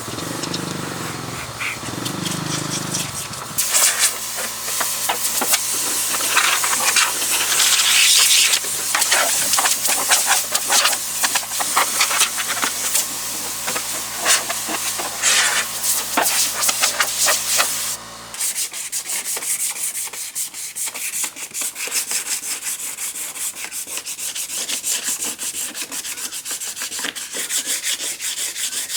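Sanding on the body of an old car: first a power tool runs with a steady motor hum under a rough rasp for about fifteen seconds. After a sudden cut, fast, dense rasping strokes follow without any motor.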